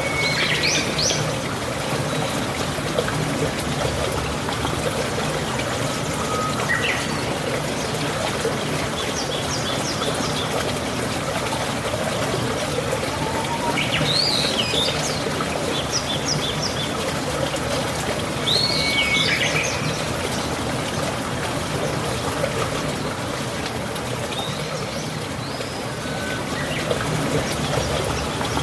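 Steady rain with a constant hiss of falling and trickling water. A bird calls over it in short chirping phrases several times: at the very start, around a third of the way through, twice near the middle, and briefly near the end.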